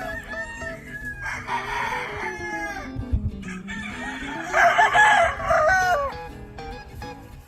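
Gamefowl roosters crowing twice, the second crow louder, over background music.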